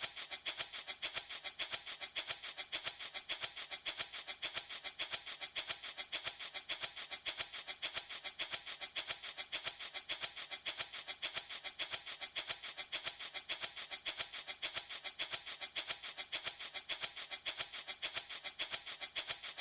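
Handmade baby rattle shaken in a steady, even rhythm, several crisp shakes a second, with no pauses.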